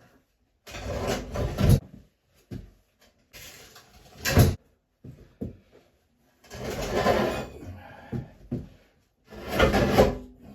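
A South Bend lathe being shifted across the floor: four bouts of scraping and grinding, with a sharp knock about four seconds in.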